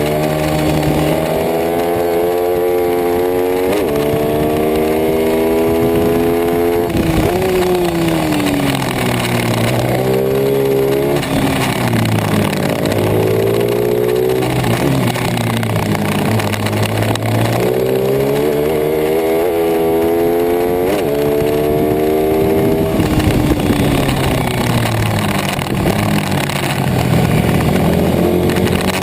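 Racing pit bike engine revving hard, climbing through the gears in short rising steps, then falling away as the rider shuts off for corners. The pattern repeats several times.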